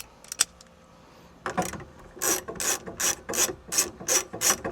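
Hand ratchet wrench being worked in quick, even strokes, about three a second, starting about a second and a half in.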